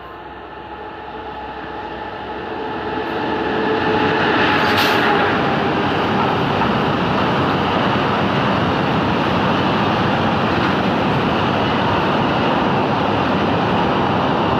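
Container freight train hauled by a WAG-7 electric locomotive passing at speed. The noise swells over the first four seconds as the train comes up and peaks about four to five seconds in. It then settles into a steady rolling rumble of the container wagons running over the rails.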